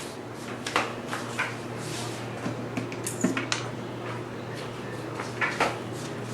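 Kitchenware being handled: a few light clicks and knocks, scattered through, over a low steady hum.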